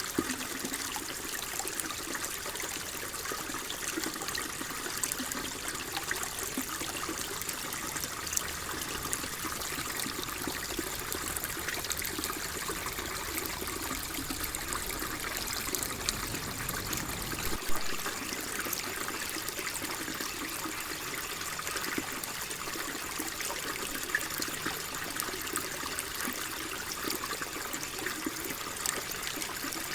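Flowing water trickling steadily, like a small stream, with fine crackling detail. A brief low rumble stops suddenly a little past halfway.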